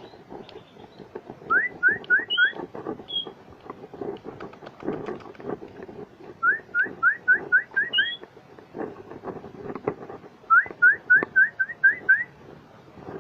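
A willie wagtail singing three phrases of quick, rising whistled notes, each a run of about four to eight notes, with an occasional higher upslurred note between them.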